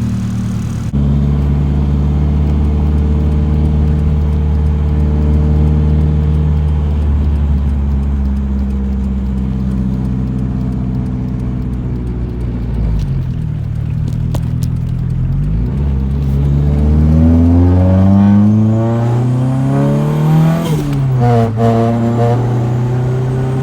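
Nissan 240SX engine and exhaust while driving: a steady engine note for roughly the first half, then the revs climbing, with the pitch dropping sharply at gear changes about two-thirds of the way in and near the end.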